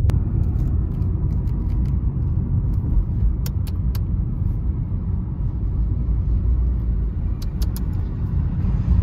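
Suzuki Swift engine idling, heard from inside the cabin as a steady low rumble, with sharp clicks from the light switch on the indicator stalk being twisted: two about three and a half seconds in and three more in quick succession near the end.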